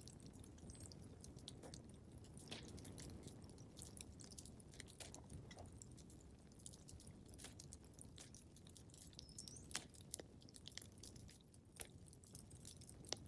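Wood fire crackling in a fireplace: irregular small snaps and pops over a soft low rumble, with a few sharper pops near the end.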